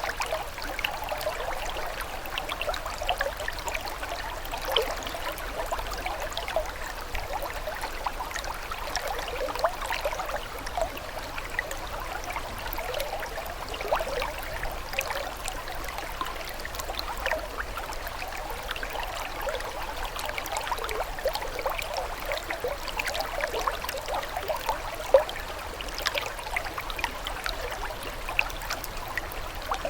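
Small stream of water trickling and gurgling steadily, with many little bubbling plinks.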